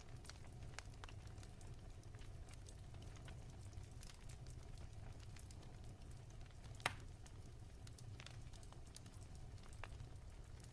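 Wood fire in a fireplace crackling softly: scattered small pops over a low rumble, with one sharper pop about seven seconds in.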